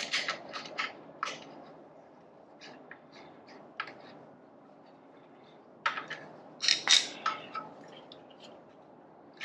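Irregular metal clicks and clinks of bolts, a lock nut and hand tools being handled while fitting exhaust mounting hardware, with a cluster in the first second or so and a louder cluster a little past the middle.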